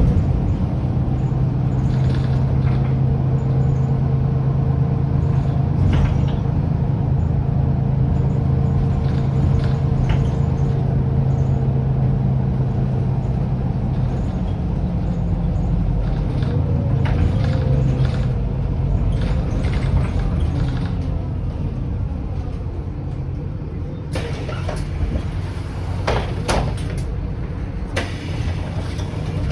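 Mercedes-Benz O530 Citaro city bus running, its OM906hLA diesel engine and ZF Ecomat automatic gearbox giving a steady low drone that shifts a little past halfway. Clicks and knocks near the end.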